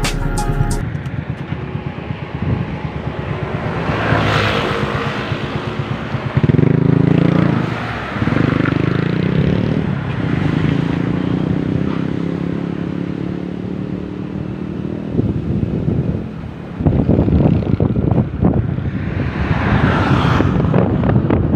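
Motorcycle engine running while riding, its pitch shifting up and down as it speeds up and slows, with wind gusting on the microphone a few times.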